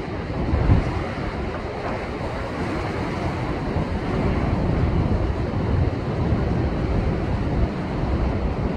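Rough ocean waves surging and breaking against shore rocks: a continuous rush of churning water, with gusts of wind buffeting the microphone and a low thump about a second in.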